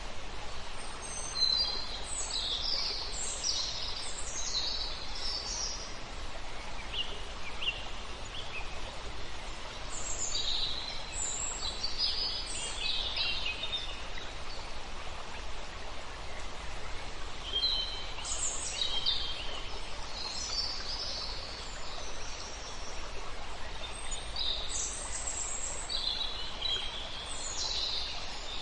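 Songbirds singing in four spells of quick, high chirping phrases over the steady rush of a river.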